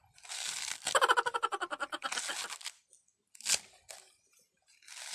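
Coconut husk being torn off with the teeth, its coarse fibres ripping away in several bursts; the longest, about a second in, has a fast rattling creak as a strip pulls free.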